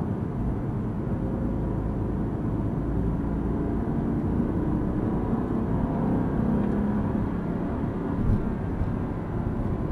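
Mercedes-AMG sports car's engine and tyre noise heard inside the cabin at track speed, a steady low drone that firms up as the car accelerates out of a corner. A single short knock comes about eight seconds in.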